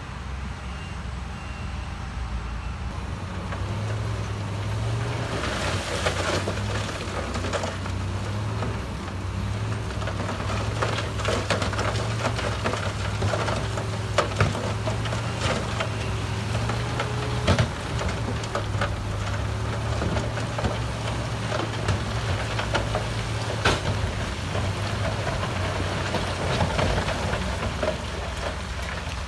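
Heavy diesel earthmoving machinery working: a steady low engine drone that grows louder a few seconds in, with many sharp metallic clanks and knocks throughout.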